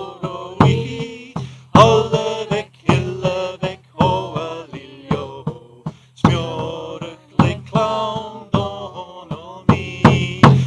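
Scottish Gaelic song: voices singing over a drum struck about once a second, with a low steady drone beneath.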